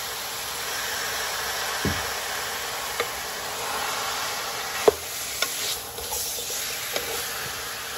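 Chicken wings sizzling as they sauté in a large metal pot, with a wooden spoon stirring them and knocking sharply against the pot a few times.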